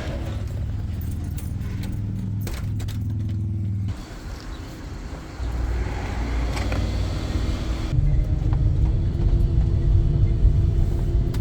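A motor vehicle running, heard as a steady low engine and road hum. The hum changes abruptly a few times, about four, five and eight seconds in.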